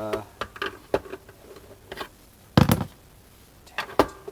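Sharp clicks and knocks of a screwdriver working at a deep-set screw in a plastic boombox case, with the loudest knock about two and a half seconds in.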